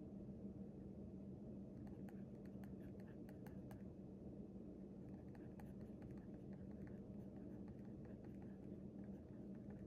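Faint scratching of writing on paper, in two short spells of quick strokes, over a steady low room hum.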